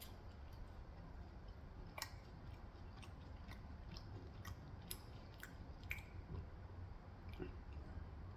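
Close-up chewing of food, faint, with small sharp wet mouth clicks about two a second in the middle of the stretch.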